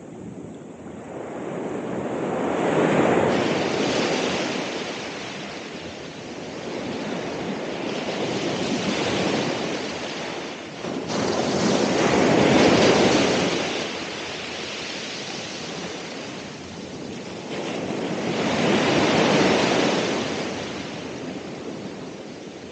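Ocean waves breaking on the shore, a rushing roar that swells and fades over a few seconds as each wave comes in, four times in turn.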